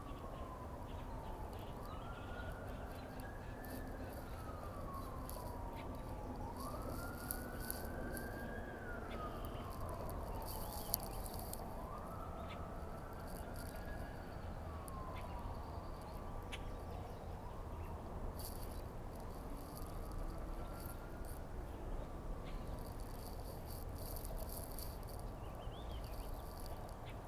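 Distant emergency-vehicle siren on a slow wail, each cycle rising quickly and then sliding down over a few seconds, repeating about every four to five seconds and fading out near the end, over a steady low rumble.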